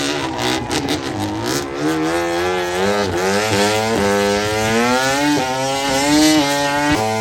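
Racing motorcycle engine accelerating hard, its pitch climbing and dropping back at each of several quick upshifts.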